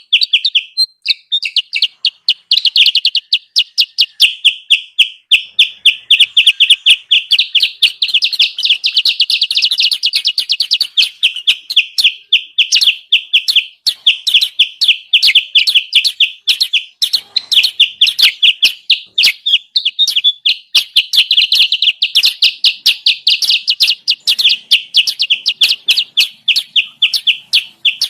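Kutilang sutra bird lure call: a fast, unbroken run of high, sharp chirps, about five a second, used to draw wild kutilang sutra in.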